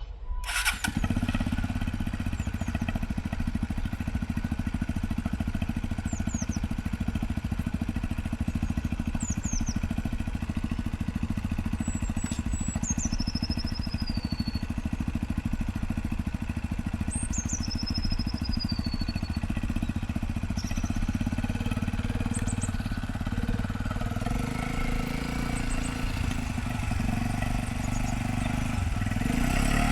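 125cc motorcycle engine running steadily at low revs over a low rumble, growing louder in the last few seconds. A bird gives a few high, falling chirps in the middle.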